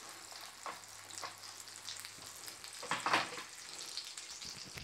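Potato bread farl frying in melted butter in a non-stick pan: a soft, steady sizzle with scattered crackles, the strongest about three seconds in.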